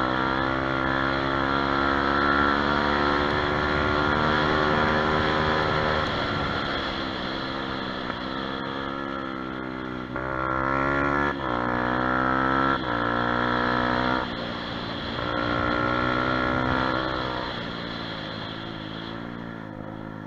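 Kuba Black Cat motorbike engine revving: it is held at high revs for several seconds, drops back, and is revved up again twice before settling lower and quieter near the end.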